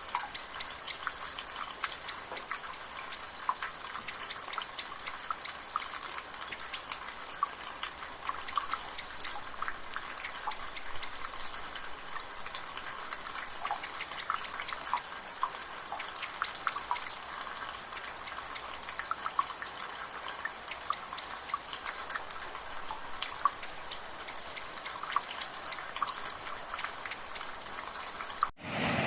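Trickling water with many small drips and splashes, and a short high chirping call repeated in little clusters every second or two. The sound breaks off abruptly near the end.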